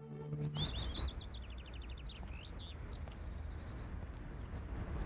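A held music chord cuts off about half a second in. After it, birds chirp and trill again and again over a steady low outdoor rumble.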